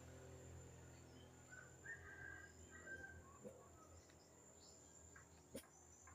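Near silence with faint bird chirps a couple of seconds in, over a steady high insect trill.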